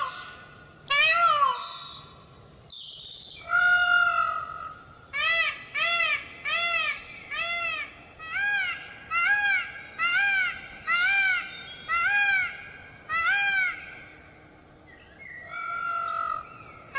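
Indian peafowl (peacock) calling: a few loud call notes that rise and fall in pitch, one longer call about three seconds in, then a rapid run of short honking calls, about two a second, and a quieter drawn-out call near the end.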